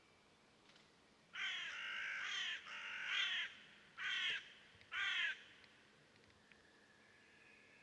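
A bird giving four harsh, raspy calls: two longer ones in quick succession, then two short ones about a second apart.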